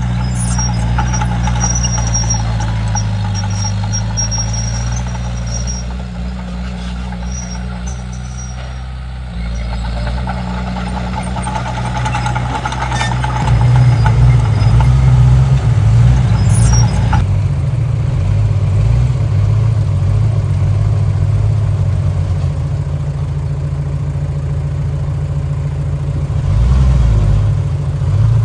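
Komatsu D31P bulldozer's diesel engine running under changing load, getting louder about halfway through, with high squeaks in the first several seconds.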